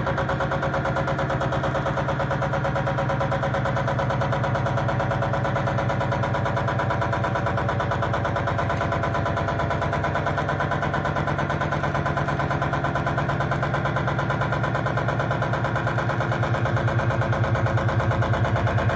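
Continuous electronic drone of many layered pitches with a fast, even flutter, sound generated from a line drawing. It grows slightly louder near the end.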